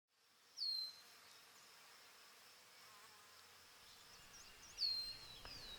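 A small bird calling outdoors: two sharp, high whistles that slide down in pitch, about half a second in and again near the end, with a faint steady high-pitched tone between them.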